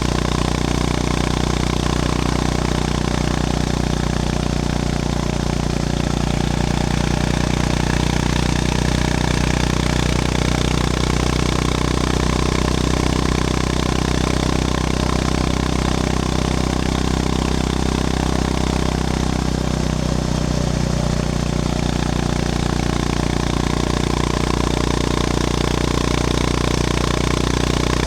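Honda GB350S's air-cooled single-cylinder engine running steadily while the motorcycle is ridden, its note rising and falling slightly with the throttle a couple of times.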